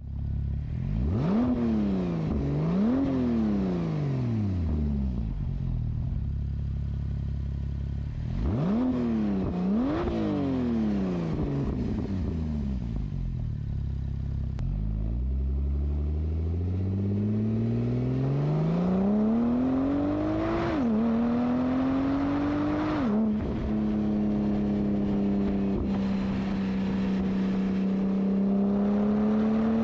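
Porsche Turbo engine with a Fabspeed aftermarket exhaust. It is blipped twice in quick double revs that fall back to idle, then twice more. Then it pulls up steadily through the revs, drops in pitch twice as it shifts up, and settles into a steady, slightly rising note.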